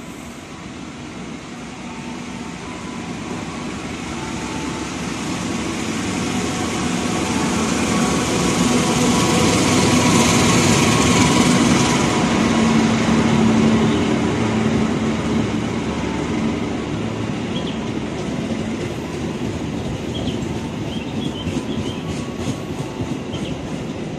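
CC 206 diesel-electric locomotive hauling an express passenger train through the station without stopping. The engine grows steadily louder and is loudest as it passes, about ten to fourteen seconds in. Then the coaches roll by with a regular clickety-clack of wheels on the track.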